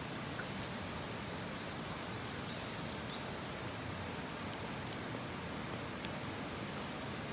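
Wood campfire burning: a steady hiss with a few sharp crackling pops in the second half. A faint, thin, high whistle sounds through the first two seconds.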